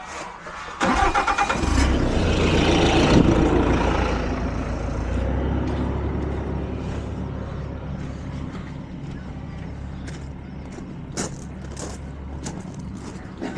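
A Bobcat skid-steer loader's engine being started: the starter cranks for about a second, then the engine catches and runs up before settling to a steady idle.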